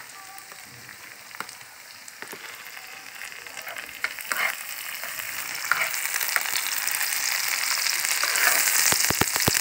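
Chopped onions, green chilli and tomatoes sizzling in hot oil in a nonstick frying pan as they are stirred, with small scraping clicks. The sizzle grows louder through the second half, and a few sharp knocks come near the end.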